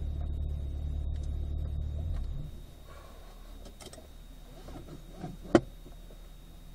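Corvette V8 idling in Park, heard from inside the cabin; the low rumble drops away about two seconds in, leaving the cabin quiet. A single sharp click comes a little past the middle.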